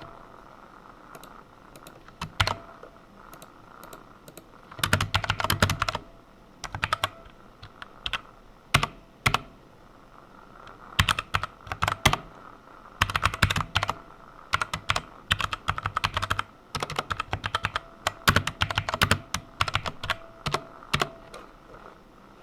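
Typing on a computer keyboard: short bursts of rapid keystrokes separated by pauses and single key presses.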